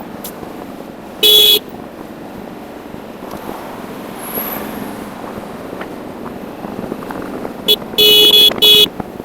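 Vehicle horn beeping: one short beep about a second in, then a quick tap and two longer beeps near the end. A steady road and wind noise runs underneath.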